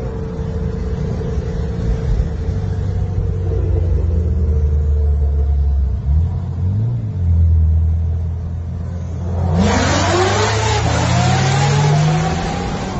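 Car engine running steadily, its note dipping and changing about six to seven seconds in. About two-thirds of the way through, a sudden loud rushing noise starts, with wavering tones rising and falling over it.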